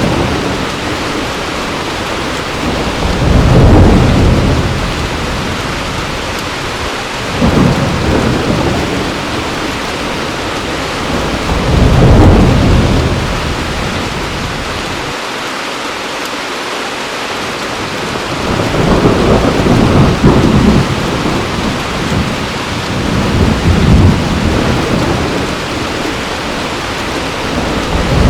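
Heavy rain pouring steadily, with rolling thunder that swells and fades about five times, each rumble lasting a second or two.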